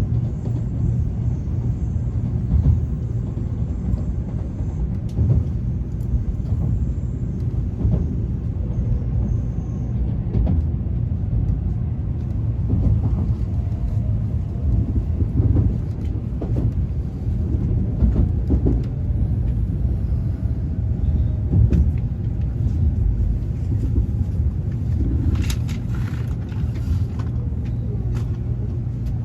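Tokaido Shinkansen bullet train running, heard from inside the passenger cabin as a steady low rumble.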